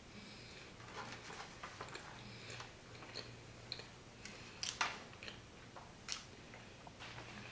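Close-mic chewing of a bison burger with wet mouth sounds, then sharp clicks and crackles of a plastic takeout clamshell being handled, loudest a little past halfway.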